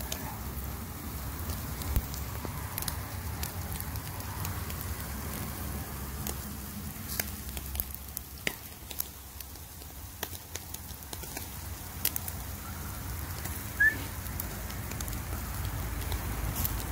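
Grill fire crackling, with scattered sharp pops over a steady low rumble. There is one brief high squeak near the end.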